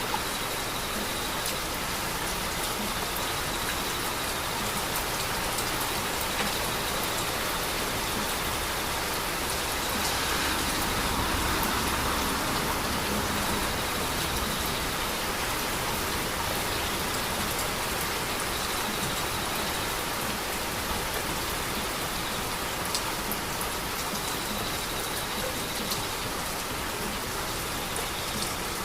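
Heavy rain falling steadily, with scattered sharp drop ticks; it swells slightly about ten seconds in.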